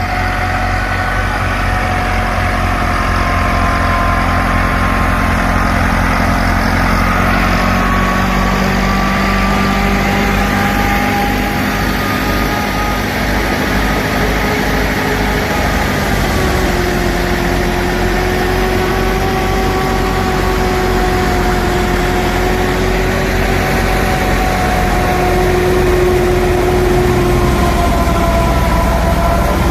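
Massey Ferguson 375 tractor's diesel engine running steadily, with several higher tones that drift slowly up and down in pitch above it.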